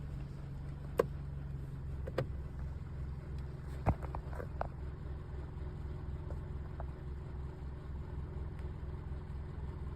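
A low, steady engine hum with a fast even pulse, an idling motor. A handful of sharp clicks or snaps cut through it in the first five seconds.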